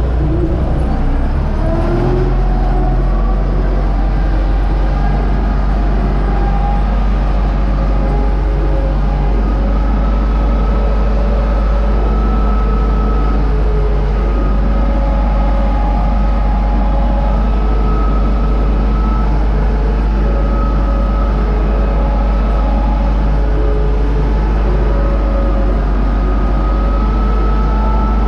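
UTB U-650 tractor's four-cylinder diesel engine running steadily under working load while pulling a wheat seed drill, with a constant low drone and a few faint held whining tones above it.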